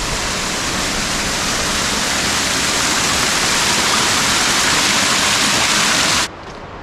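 Waterfall rushing, a loud steady hiss of falling water that cuts off suddenly near the end.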